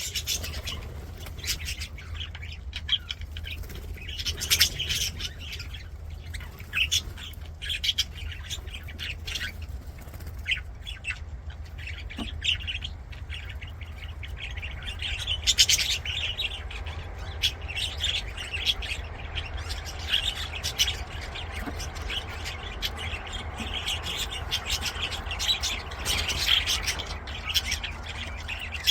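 A flock of budgerigars chirping, squawking and warbling continuously in many short overlapping calls, over a steady low hum.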